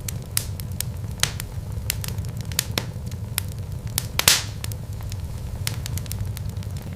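Wood fire crackling, with irregular sharp pops over a low steady rumble; one louder pop about four seconds in.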